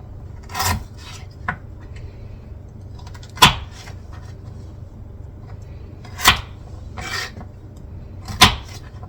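Kitchen knife chopping celeriac root on a cutting board: about six sharp, separate chops spaced a second or more apart, over a low steady hum.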